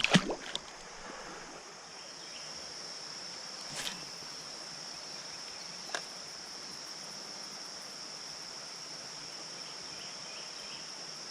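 Steady, high-pitched insect chorus over a faint wash of creek water, with a few light clicks near the start and again about four and six seconds in.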